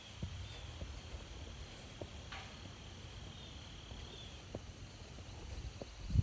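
Crickets chirring steadily in the woods, with soft footsteps on the forest trail and a louder thump near the end.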